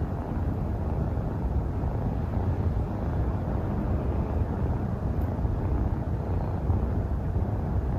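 Kitten purring steadily close to the microphone: a continuous low rumble.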